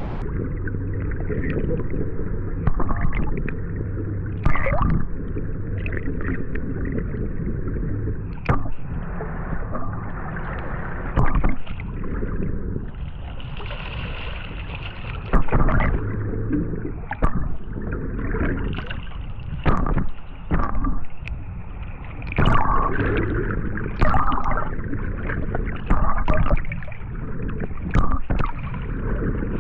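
Water sloshing and gurgling against a small boat's hull, with irregular knocks and thumps over a steady low rumble.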